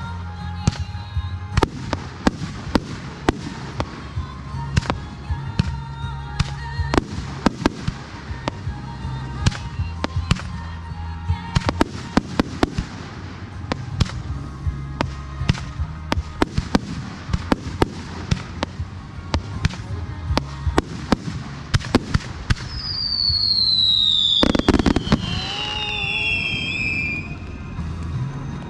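Aerial fireworks going off in quick succession, many sharp bangs over music from loudspeakers. Near the end the display gets louder, and several high whistles glide down in pitch.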